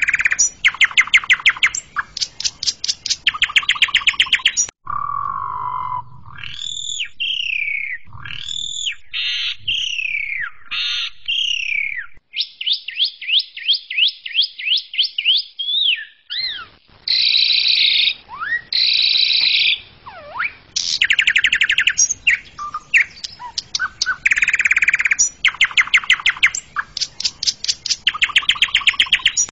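Asian pied starling (jalak suren) singing loudly with a varied song: fast rattling trains of notes, whistled up-and-down glides, a quick run of rising notes and a few harsh squawks.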